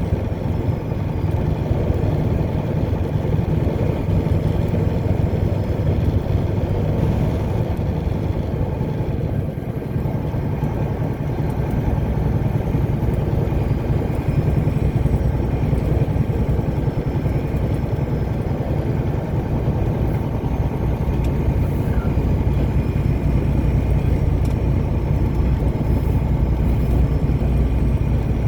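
Car driving at steady speed: a constant low engine and road rumble.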